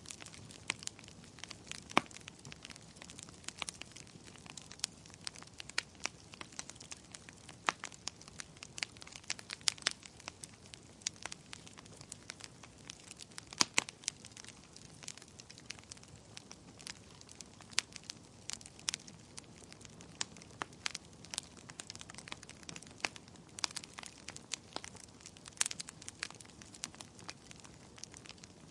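Wood bonfire crackling: a steady run of irregular small pops and snaps over a low hiss, with a few sharper snaps, one about two seconds in and two close together around the middle.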